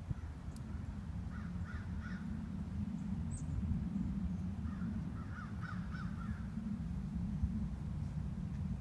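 A crow cawing in two short series of three or four calls, about a second in and again around five seconds in, over a steady low rumble.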